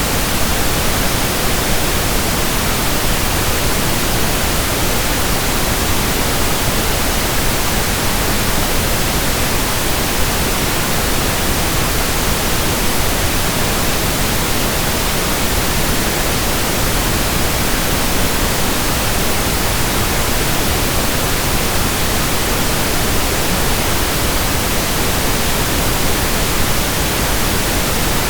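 Steady pink noise: an even hiss with no changes or events.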